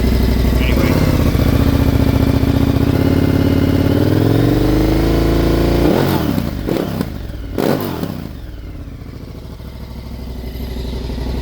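KTM 1290 Super Adventure R's V-twin engine through a decat straight-pipe exhaust, running steadily, then revved gradually higher over a few seconds. The throttle is then snapped shut and the revs fall sharply, with a couple of quick sharp sounds, before it settles back to idle.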